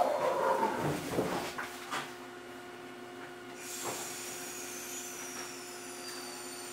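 Running noise inside an Eizan Electric Railway Deo 700 series railcar fades away over the first couple of seconds as the car slows to a stop. It leaves a quiet, steady hum of onboard equipment with a few light knocks and a faint high whine that slowly falls in pitch.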